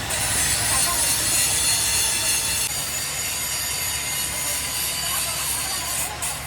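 Steady harsh abrasive hiss of steel being worked on a truck rim, easing slightly in its upper pitch about three seconds in.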